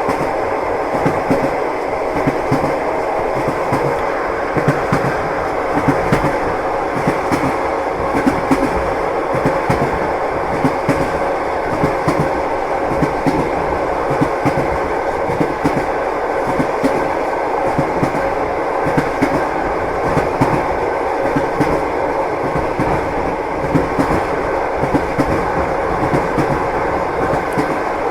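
Passenger train wheels clattering over the rail joints: a steady rumbling ride with frequent, irregular knocks, heard from inside the carriage.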